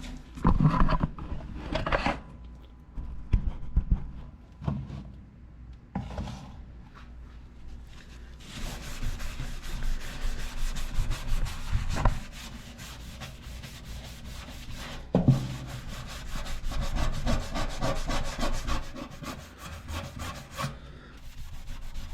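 A few knocks and handling sounds, then from about eight seconds in a long run of fast back-and-forth scrubbing on a greasy toaster oven, working a dish soap and vinegar mix into baked-on grime. The scrubbing stops shortly before the end.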